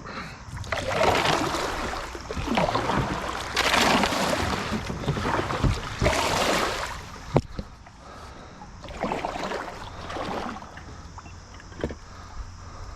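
Kayak paddle strokes splashing in river water, a swoosh every two to three seconds, with one sharp knock about seven seconds in.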